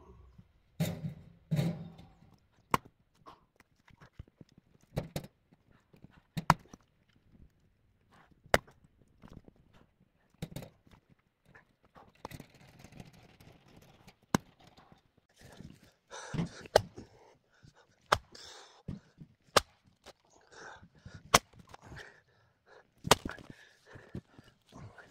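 About a dozen sharp knocks of wood on wood, spaced irregularly a second or two apart, as split firewood is handled.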